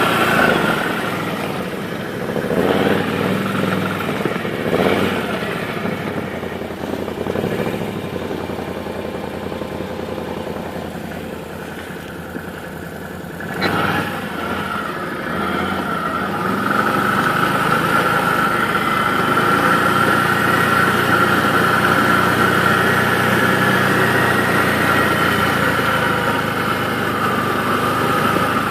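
1000 cc V-twin ATV on snow tracks running. It revs in short surges about two and five seconds in, gives a brief sharp knock about halfway, then pulls steadily with a high whine for the second half.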